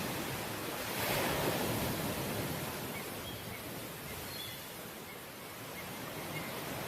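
Sea waves breaking and washing on the shore: a wave surges about a second in, the wash eases off, then builds again near the end.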